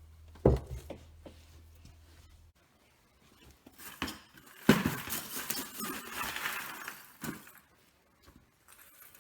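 Metal clinking and knocking as steel and tools are handled at the workbench, with a sharp knock about half a second in. A scraping, rustling stretch runs through the middle and ends in another knock.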